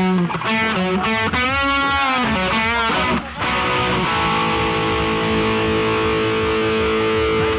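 Electric guitar music: bending, sliding notes, then one long sustained note from about four seconds in.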